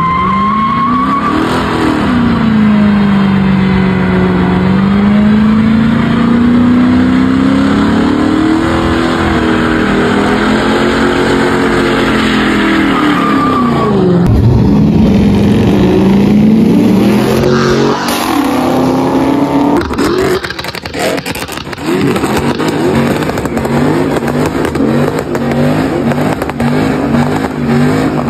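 Car engine revving hard, its pitch sweeping up and down again and again, then settling into a lower, pulsing rev near the end.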